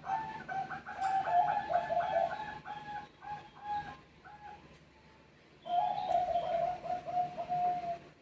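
Zebra doves (Thai 'Bangkok' perkutut) cooing back and forth: a quick run of short, repeated coo notes for about four seconds, a pause, then another phrase of coos near the end.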